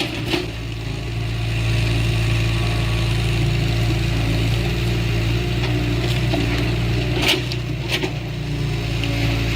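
Diesel engine of heavy earthmoving machinery running steadily at a low, even pitch, with two sharp knocks about half a second apart near the end.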